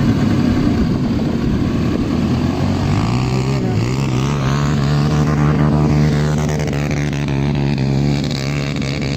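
An ATV's engine runs at varying throttle. Its pitch dips about three and a half seconds in, holds steady for several seconds, then drops near the end.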